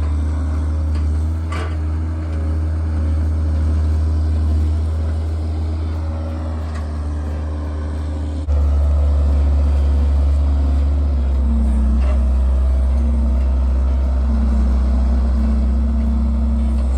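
A vehicle engine running steadily with a low, even hum. About eight and a half seconds in it abruptly gets louder and its pitch shifts slightly.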